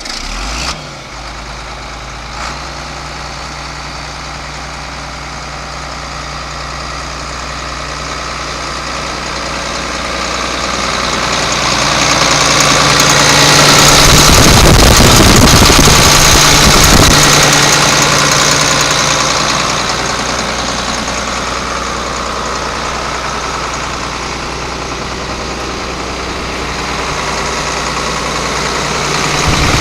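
John Deere 4640 tractor's six-cylinder turbocharged diesel engine catching right at the start and settling into a steady idle, without revving. It grows louder for several seconds around the middle, then eases back.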